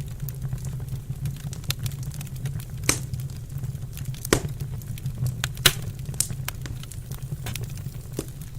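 Wood fire burning in a fireplace: irregular sharp crackles and pops over a steady low rumble, with a few louder pops near the middle.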